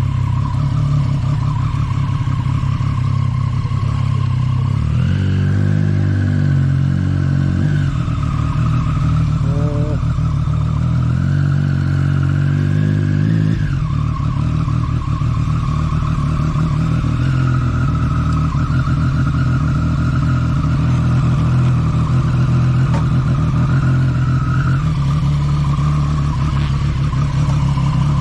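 Motorcycle engine running steadily, with the pitch rising twice as it revs up for a few seconds and then falling back.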